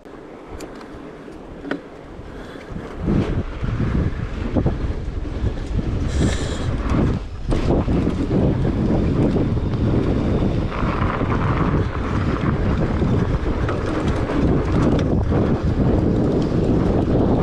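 Wind buffeting the microphone over the rumble of a fat bike's studded tires rolling over snow and trail, growing louder about three seconds in.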